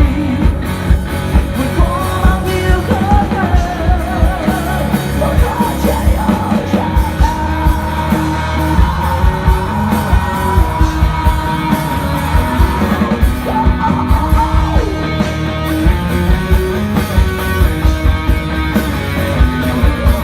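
A rock band playing live and loud, with drums keeping a steady beat and a raised voice singing over the band.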